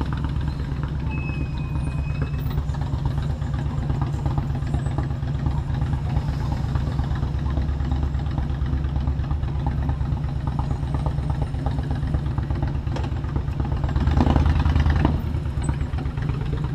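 Motorcycle engine running steadily at low revs, with a louder swell lasting about a second near the end.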